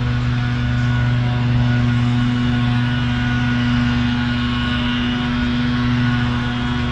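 A steady low drone with a strong, unchanging hum and no breaks or distinct events.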